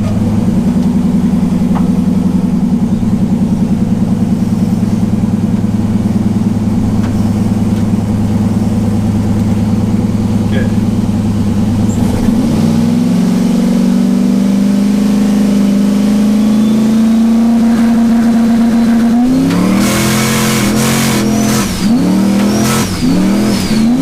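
Turbocharged LS V8 pickup engine held on the brake building boost: it runs steadily, steps up in revs about twelve seconds in and holds there. About nineteen seconds in it launches and the revs rise and fall rapidly with a loud hiss and a turbo whine as the rear tires break loose on the damp road.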